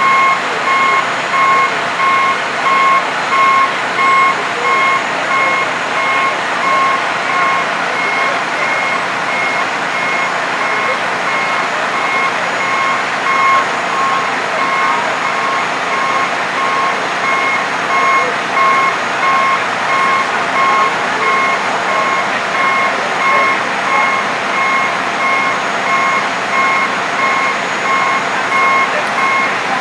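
Truck's back-up alarm beeping steadily, about once a second, over the constant rumble of running engines.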